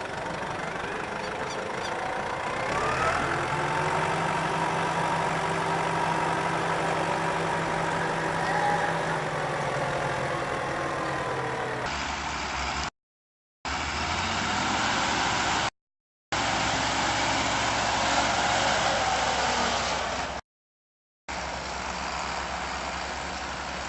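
Heavy vehicle engine running under load, its pitch rising about three seconds in and then holding steady. After that comes a series of short engine clips, cut apart by three brief silent gaps.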